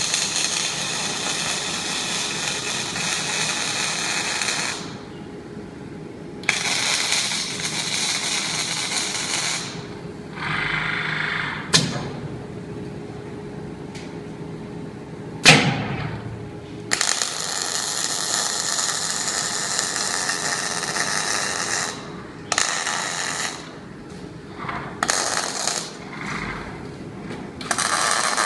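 Robotic welding machine's arc crackling and buzzing in bursts a few seconds long, separated by short pauses between welds, over a steady machine hum. There are two sharp clicks in a pause about midway.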